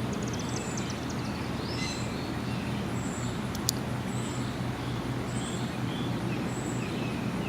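Steady distant rumble of an unseen aircraft to the south, with birds chirping repeatedly over it and a single sharp click about halfway through.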